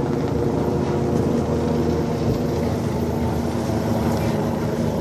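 Helicopter running close by: a steady rotor and engine noise with a fast flutter, holding level throughout.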